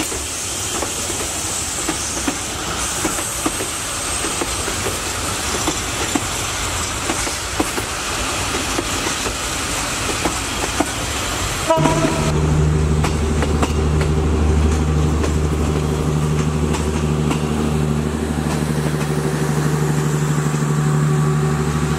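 Train sounds laid over the picture: a train rolling by with its wheels clattering and clicking. About twelve seconds in, a steady low-pitched drone suddenly takes over and holds.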